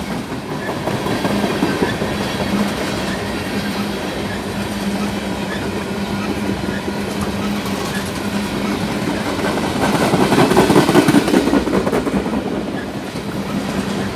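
Freight train rolling past at speed: a steady clatter of wheels on rail with a low steady hum, swelling louder about ten seconds in.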